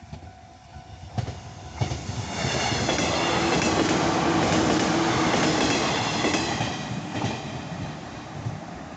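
A JR 115 series electric multiple-unit train passes close by, its wheels clacking over the rail joints. It comes in with a couple of sharp clacks about a second in, is loudest through the middle few seconds, and dies away near the end.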